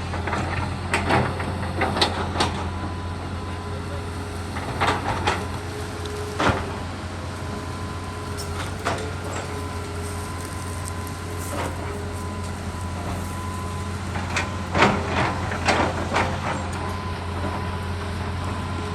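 Excavator engine running steadily with a faint hydraulic whine, broken by sharp cracks and knocks scattered through, some in quick clusters, as the machine pushes through trees.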